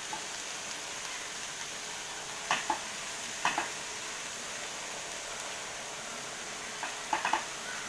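Spice masala of tomato, curry leaves and ground spices sizzling steadily in a pan over low flame, with a few sharp clicks of a spoon against the pan: two near a third of the way in and a quick cluster near the end.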